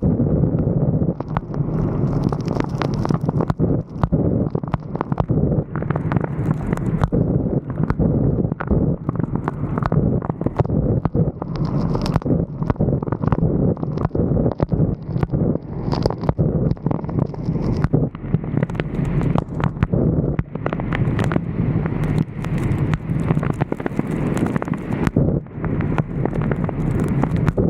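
Wind buffeting a roof-mounted camera microphone on a moving vehicle, a steady low rush with road rumble, broken by frequent sharp taps and knocks.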